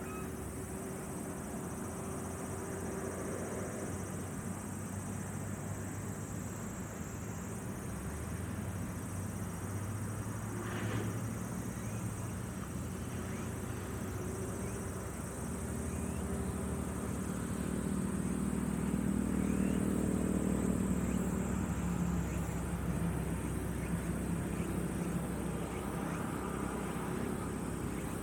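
A distant motor vehicle engine hums, growing louder past the middle, then easing off, over a thin steady high-pitched background hum.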